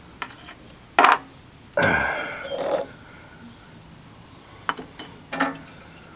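Metal engine parts being handled and set down: a few sharp clanks and clinks, one ringing briefly, then several lighter clicks near the end.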